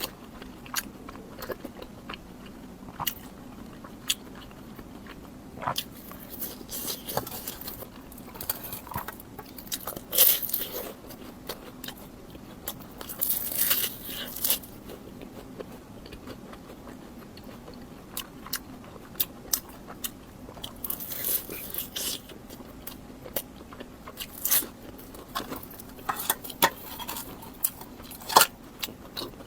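Close-miked eating of crunchy food: sharp crisp bites and crunching chews, coming in clusters with short pauses between.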